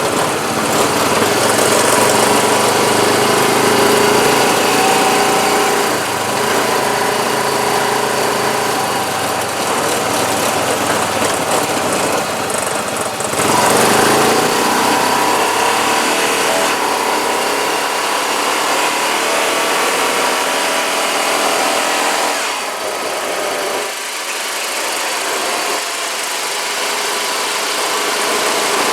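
Honda four-wheeler (ATV) fitted with tracks, its engine running steadily as it rides along a paved street. The engine pitch and level dip and pick up a couple of times with changes in speed.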